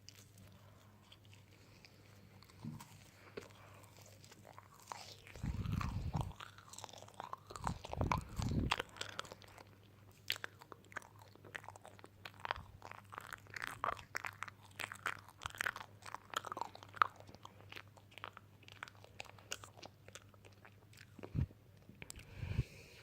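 Crunching and chewing: many irregular crisp crackles, with a few dull thumps in between.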